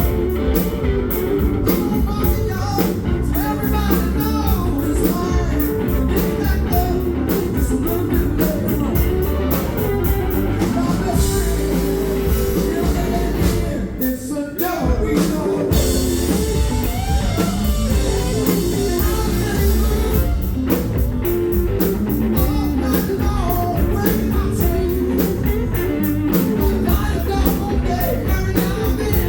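Southern rock band playing live, loud, with electric guitar, drums and sung vocals. There is a short break in the beat about halfway through.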